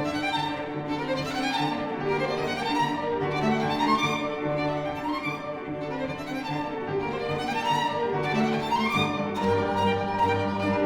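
Violin and cello playing a slow classical passage: sustained low notes underneath while the upper line rises in phrases, repeating every few seconds.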